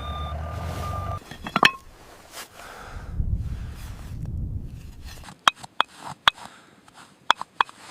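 A vehicle's reversing beeper sounding over a low engine rumble, both cutting off about a second in. This is followed by scattered sharp clicks and clinks, with a quick run of them near the end.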